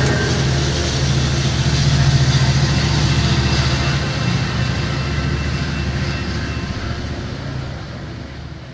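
Diesel locomotive engine running steadily with a deep, even hum, dying away near the end.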